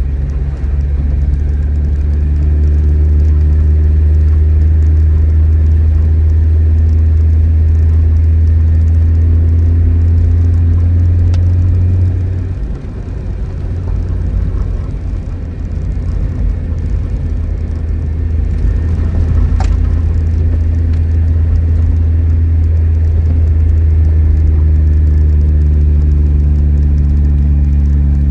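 Tofaş Doğan SLX engine running steadily with a deep, even hum; its level drops briefly about twelve seconds in, then settles back to the same steady running.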